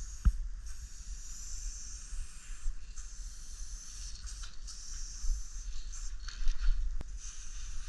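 Aerosol spray paint can hissing in several short bursts, each lasting about a second with brief pauses between, as paint is sprayed on a wall. A couple of sharp clicks fall in between.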